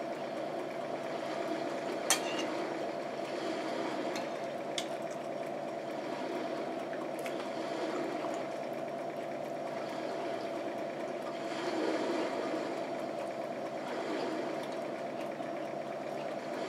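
Close-miked eating sounds: wet chewing of food, with a few sharp clicks of a metal fork on a plate or against teeth, the loudest about two seconds in. A steady background hum runs underneath.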